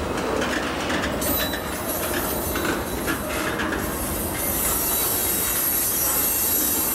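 Freight train of railroad tank cars rolling past, its wheels clicking over the rail joints. A high wheel squeal joins about four and a half seconds in.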